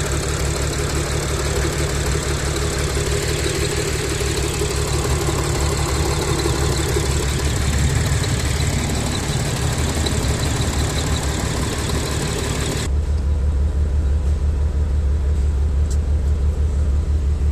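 Supercharged Audi V6 idling rough and shaky, which the owner puts down to a misfire, an intake air leak or a fuel injector fault. About two-thirds of the way through, the sound suddenly turns duller, leaving mostly a low drone.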